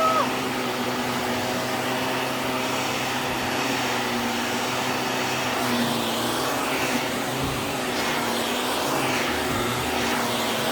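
Vacuum cleaner motor running steadily, with a short high squeak that rises and falls right at the start.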